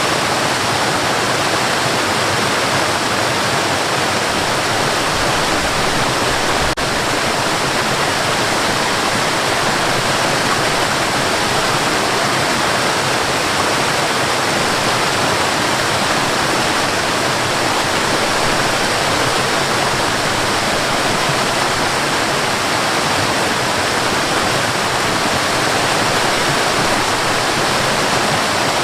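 Waterfall and river water rushing in a steady, dense wash of noise, with a brief dropout and click about seven seconds in.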